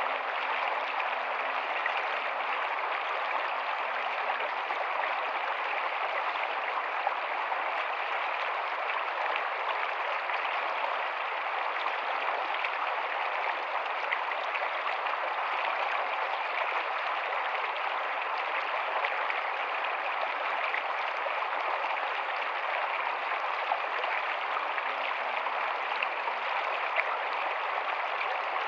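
Rocky stream running steadily over stones, an even rushing of water with small splashes.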